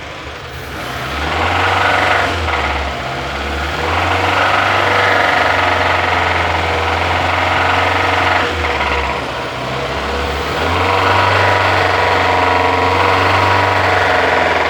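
Renault Logan 1.0 16-valve engine revved up three times, each rev held for a few seconds, with a horrible knocking from inside the engine. This is the sign of oil starvation after the oil ran below the minimum; the mechanic is sure of a worn crankshaft or worn connecting-rod bearings.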